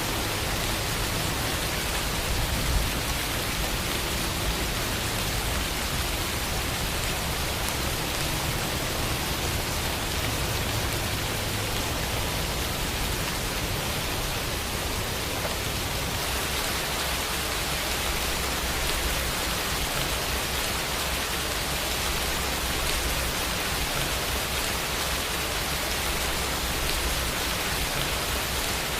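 Steady rainfall, an even hiss of falling rain and drops on surfaces, with a single slightly louder drop or patter about three seconds in.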